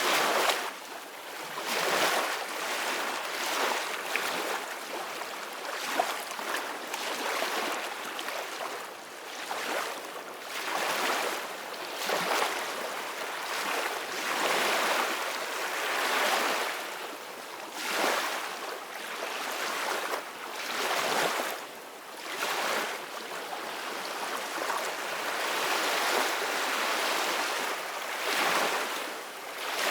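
Ocean waves washing onto a shore, a continuous rush of surf that swells and ebbs every second or two.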